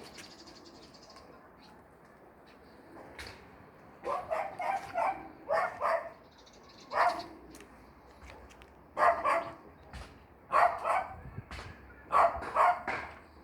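A dog barking: short barks in quick runs of two to four, starting about four seconds in and repeating several times.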